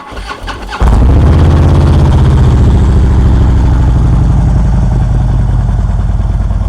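Motorcycle engine cranking briefly, catching about a second in, then settling into a steady idle.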